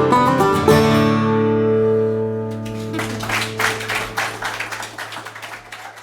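An acoustic string band's final chord on plucked strings, struck about a second in and left ringing as it slowly fades. Audience applause starts about three seconds in.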